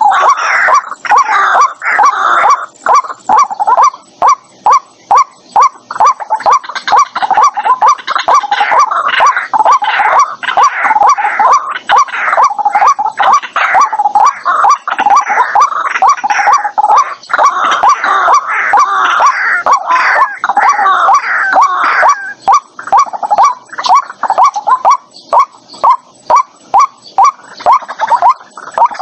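White-breasted waterhen calling: a long unbroken run of loud, rapid repeated notes, a few a second.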